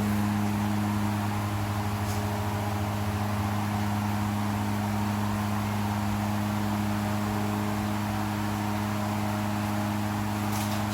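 A steady, low machine hum with a constant pitch.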